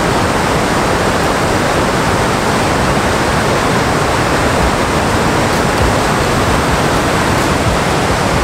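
Water rushing down a concrete dam spillway: a loud, steady rushing noise.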